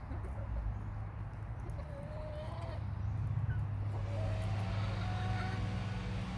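Hens making soft, drawn-out calls, twice, over a steady low rumble.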